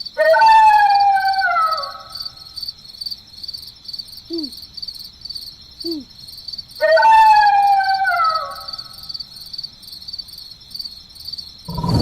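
Night-time sound effects: crickets chirring steadily, with two long howls that fall in pitch, one at the start and one about seven seconds in, and a few short low calls between them. A louder rumbling sound begins right at the end.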